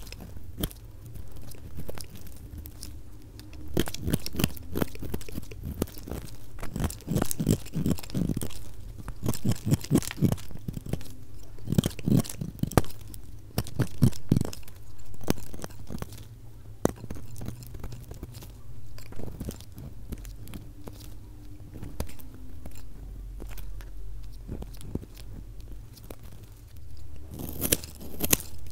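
A knife cutting through a bar of soap in a run of irregular crunchy, crackling strokes, sped up to double speed.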